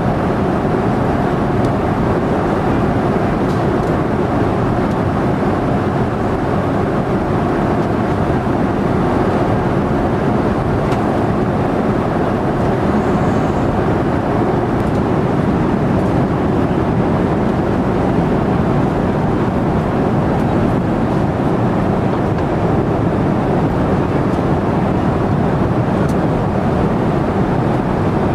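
Steady, unbroken rumble and rush of a vehicle in motion, the same throughout with no changes.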